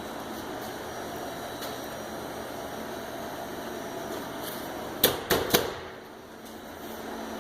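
Three quick knocks on a water heater's metal vent pipe about five seconds in, tapping to draw a response from a bird trapped inside, over a steady background hiss.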